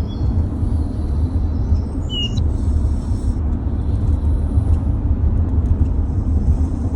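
Wind buffeting the microphone, a loud, uneven low rumble, with a short bird chirp about two seconds in.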